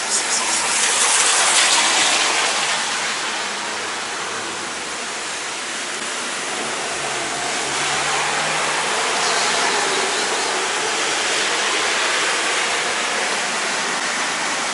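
Steady heavy rain falling on pavement, an even hiss that swells a little about a second or two in.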